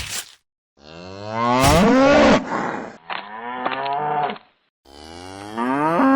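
Cattle mooing: three drawn-out calls, the second shorter, the third still going at the end.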